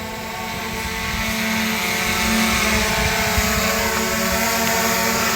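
DJI Mavic Air 2 quadcopter drone's propellers buzzing at a steady pitch, growing louder as it comes closer.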